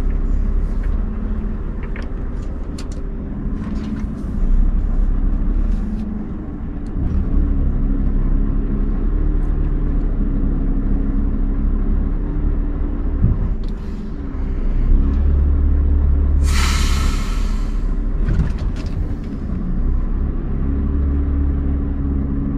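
Scania R580 truck's V8 diesel engine running steadily, its pitch shifting a little about a third of the way in. About three-quarters through comes a loud burst of air hiss lasting a second or two.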